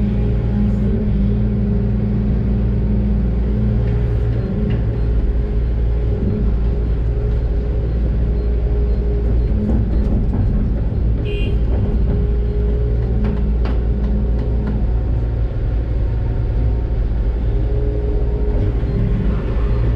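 Doosan DX600 excavator's diesel engine running steadily under working load, heard from inside the cab, with a few faint knocks. A short high beep sounds about halfway through.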